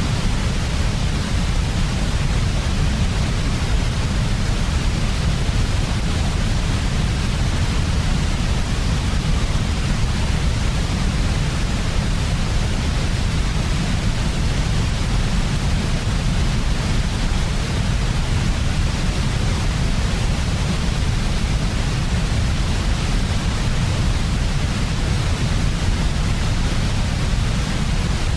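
Steady, unchanging white-noise sleep sound, weighted toward the low end so it comes across as a deep hiss with a rumbly bottom.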